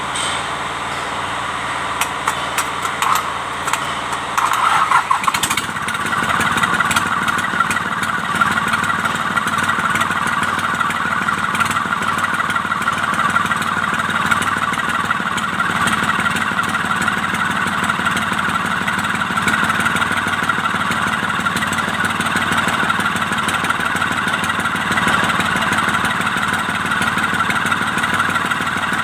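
Mitsubishi K3E three-cylinder diesel engine of an MT18 tractor running after a rebuild with new pistons and rings. About five seconds in its sound changes, and it then runs steadily.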